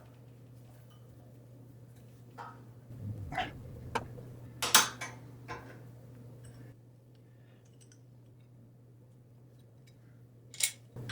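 Small metal parts and hand tools clicking and knocking as a compressor pressure switch and regulator assembly is taken apart. A run of sharp clicks falls in the first half, one more comes near the end, and a steady low hum runs underneath.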